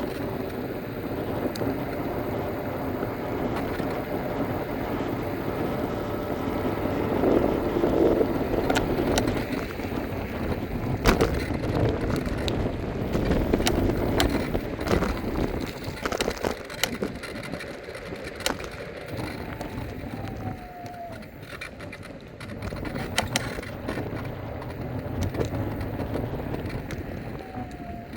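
Electric scooter ride: a steady rumble of tyres and wind on the microphone, broken by frequent sharp knocks and clicks from bumps. It goes quieter for a few seconds past the middle.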